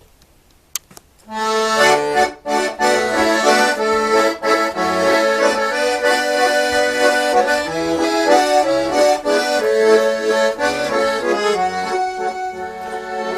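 Accordion playing the instrumental introduction to a song, a melody over held chords and bass notes, starting about a second in after a short click.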